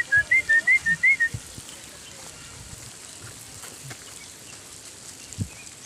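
A person whistling a quick run of about six short, high chirps, each rising slightly, to call a puppy. Then only faint background, with a soft low thump near the end.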